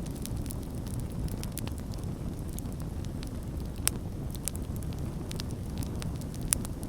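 Campfire burning, with a steady low rumble of flames and frequent sharp crackles and pops from the burning wood; two pops stand out louder, about four and six and a half seconds in.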